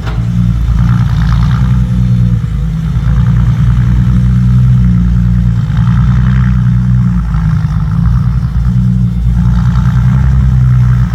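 Diesel dump truck engine running loud under heavy load, working through a muddy rutted track, its pitch shifting up and down as the driver works the throttle; the truck is pouring thick exhaust smoke.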